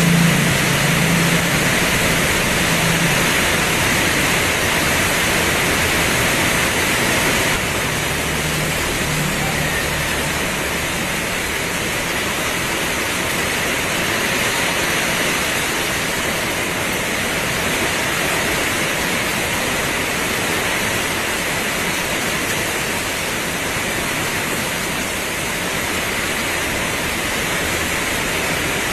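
Heavy rain pouring steadily, a dense even hiss. A low hum sits under it for the first several seconds and fades out, and the rain drops a little in level about seven seconds in.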